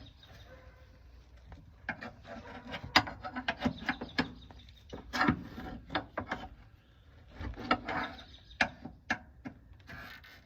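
Hand tools working a stuck bolt loose on a car's underside: irregular metal clicks and knocks with scraping in between.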